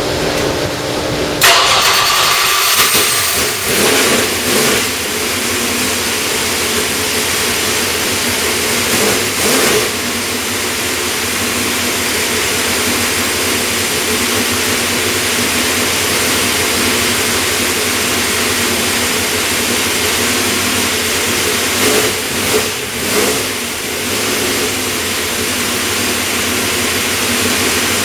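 434-cubic-inch small-block Chevy V8 racing engine running loud on an engine dyno, mostly at a steady idle with a few short blips of the throttle, one near the start and a cluster about 22 seconds in.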